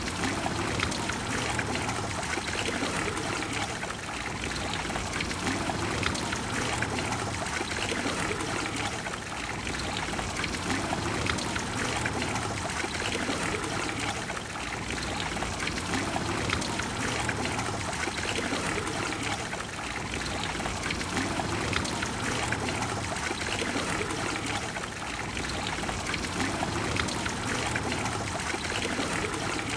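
Water of the Trevi Fountain flowing and pouring in a steady rush of noise, swelling and easing slightly every few seconds.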